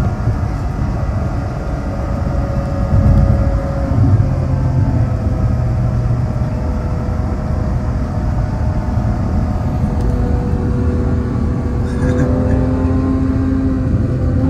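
Ferrari 812 Superfast's 6.5-litre V12 running on the road. Its pitch falls over the first few seconds, holds steady, then rises again near the end.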